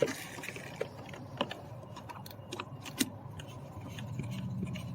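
Small screws being started by hand into a car door's window switch assembly: scattered light clicks and metallic taps, with a few sharper clicks.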